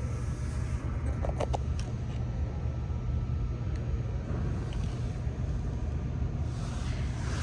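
Steady low rumble of background din, with a few sharp clicks about a second and a half in and a brief rustling hiss near the end.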